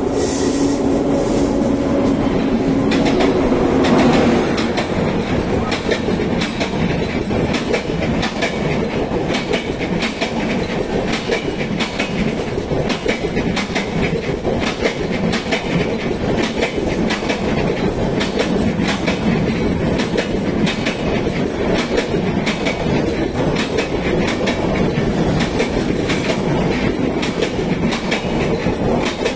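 Passenger train of LHB coaches running through a station at speed: a steady rush of wheels with rapid clickety-clack over the rail joints. A held low tone sounds for the first few seconds as the locomotive passes, and the noise peaks about four seconds in.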